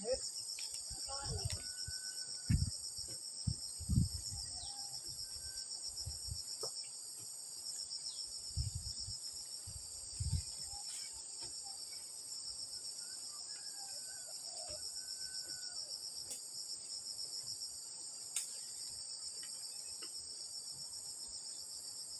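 Insects chirping in a continuous high-pitched pulsing trill, with a second, faster even pulsing chirp above it. Short low thumps break in now and then.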